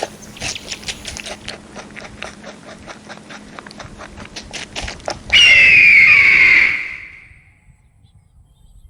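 A run of rapid clicks, then a loud animal cry that falls in pitch and lasts about a second and a half before fading away.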